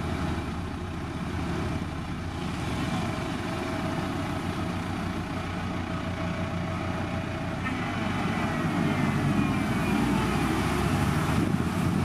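Motor grader's diesel engine running steadily, getting louder about eight seconds in, with a faint higher whine that slides down in pitch.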